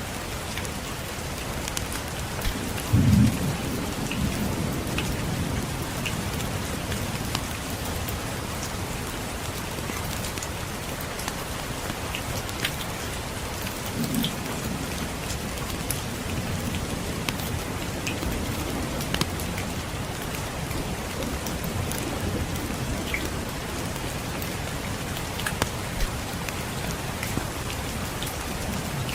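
Steady rain falling, with a roll of distant thunder about three seconds in and a weaker rumble around fourteen seconds. Scattered light crackles of a wood fire sound over the rain.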